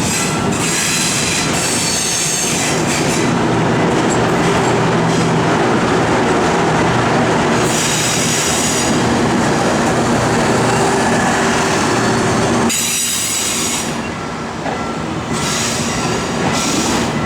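Korail train passing over a level crossing, its wheels squealing on the rails with a clatter of wheels over the track. The noise eases for a moment about thirteen seconds in.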